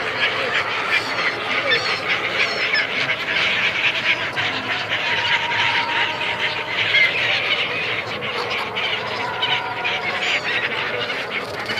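A large flock of migratory gulls calling all at once: a dense, unbroken chorus of short, overlapping squawks.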